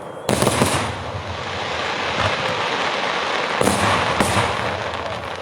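Daytime fireworks going off: a sudden loud bang about a third of a second in, then a continuous crackling barrage of rapid bursts, with two more sharp bangs a little before and after four seconds in.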